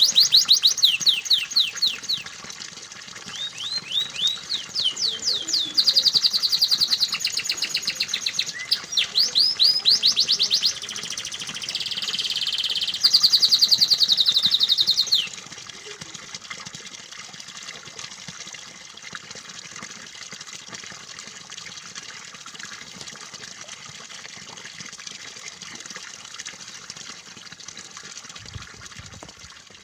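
Domestic canary song: fast trills and rolling runs of rapidly repeated high notes, which stop abruptly about halfway through. A steady trickle of running water carries on alone after that.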